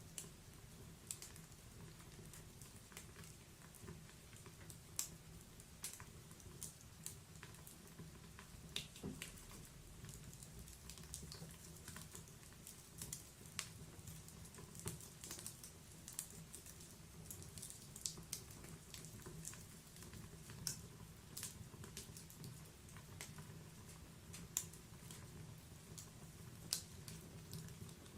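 Wood fire in a fireplace crackling: irregular sharp pops and ticks from the burning logs, some louder snaps among many small ones, over a low steady rumble of the flames.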